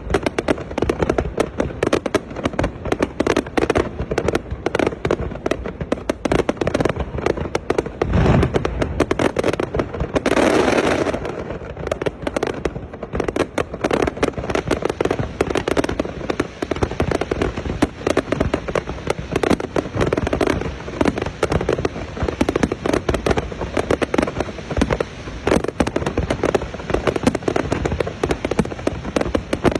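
Aerial fireworks display: a dense, continuous barrage of bangs and crackles, with a deep boom about eight seconds in and a louder burst of crackling a couple of seconds later.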